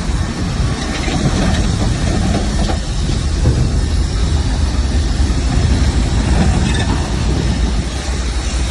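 Crawler bulldozer's diesel engine running steadily with a loud low rumble, with faint clanks and clatter from its tracks.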